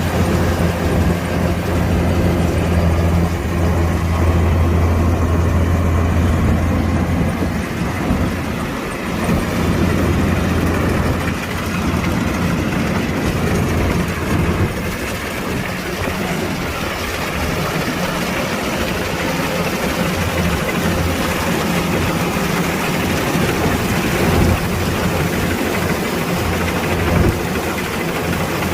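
Kubota DC-105X combine harvester's diesel engine running steadily with the machine's mechanical clatter. A deep hum is strongest for the first several seconds, then gives way to a broader, more even rush from about ten seconds in.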